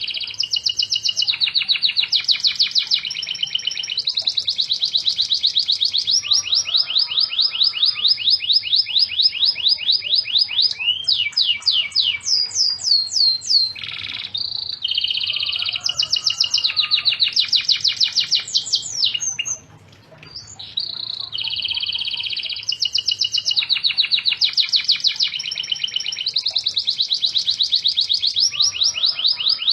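Domestic canary singing hard in long rolling trills of fast repeated notes, switching between trill types every second or two, with a short pause about twenty seconds in.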